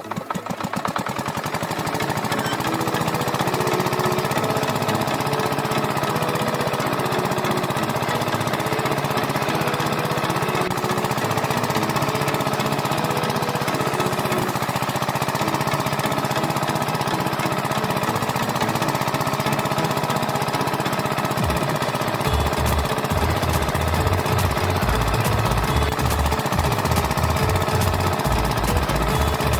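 A small motorised machine running loud and steady with a fast rattle. About two-thirds of the way in, a low, uneven thudding joins it.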